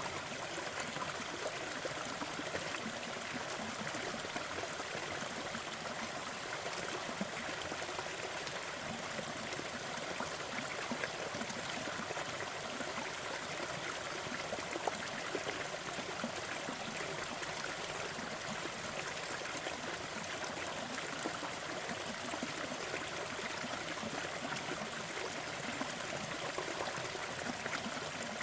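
Waterfall and running stream water: a steady splashing rush with small random splashes and no change in level.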